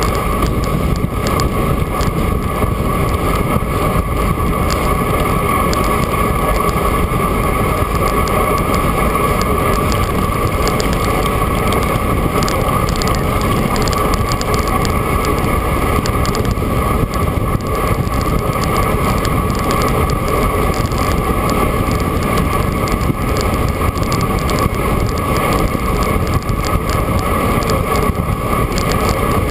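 Steady wind rush and road noise picked up by an action camera while riding a bicycle, with a constant hum running through it.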